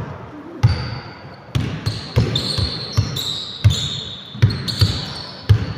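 A basketball being dribbled on a gym floor: about nine sharp bounces at an uneven pace, with short high squeaks between them in the middle and near the end, echoing in the hall.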